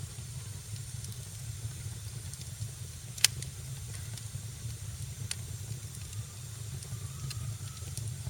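Wood fire burning in a fireplace, crackling over a steady low rumble and hiss, with one loud pop about three seconds in and a few smaller pops later.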